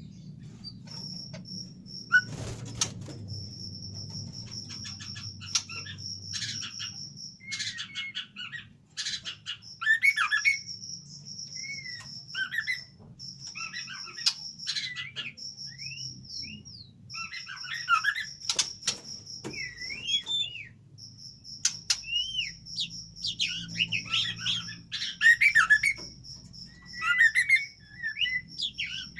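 White-rumped shama (murai batu) singing: a varied run of short whistles, chirps and rising and falling phrases, with a thin, steady high note that recurs in stretches of a second or more and a few sharp clicks.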